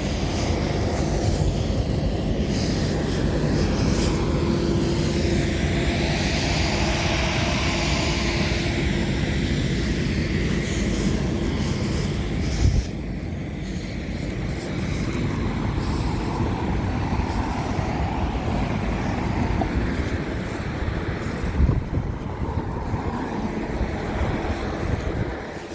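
Steady outdoor rumble of traffic, with a vehicle passing that swells and fades over several seconds.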